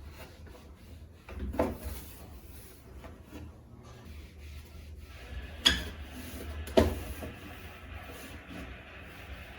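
Cloth rubbing as a refrigerator is wiped clean, with three sharp knocks from items or shelves being handled: one about a second and a half in, and two close together around six to seven seconds in.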